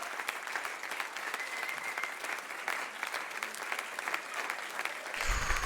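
Audience applause: many hands clapping at the end of a live band performance, with a brief high whistle about a second and a half in and a low thump near the end.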